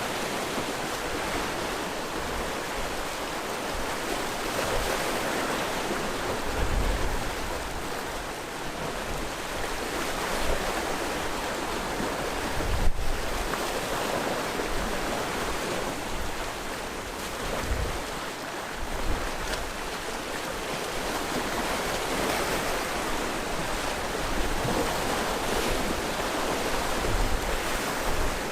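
Sea waves washing onto the shore, a continuous rushing wash that swells and eases every few seconds with deeper surges. A single sharp click cuts through about halfway.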